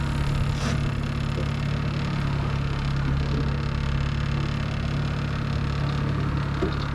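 Boat engine running steadily at trolling speed, a constant low hum.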